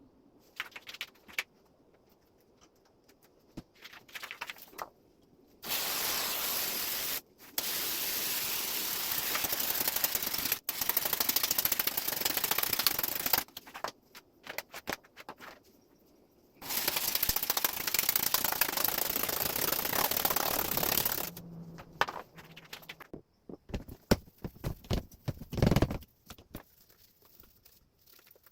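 A sprayer hissing in two long bursts of several seconds each, with clicks and handling knocks between and after them.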